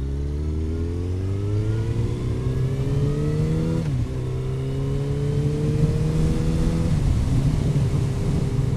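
Yamaha FZ8's inline-four engine accelerating under way, its pitch rising, dropping for an upshift about four seconds in and again about seven seconds in, then holding steady.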